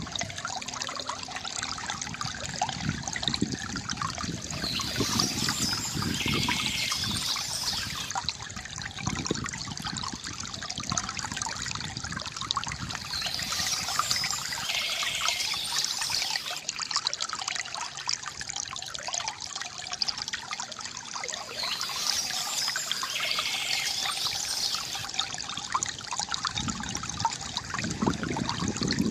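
Water trickling and splashing steadily from a bamboo fountain spout. Bursts of high bird chirping come back about every eight seconds.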